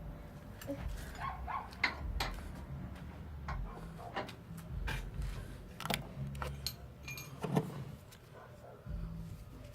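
Irregular light clicks and knocks of tools and small parts being handled and fitted, scattered every second or so over a low rumble.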